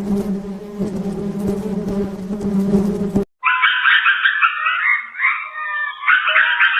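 A steady insect buzz, held at one pitch, for about three seconds; it stops abruptly, and a flock of fowl then calls over one another.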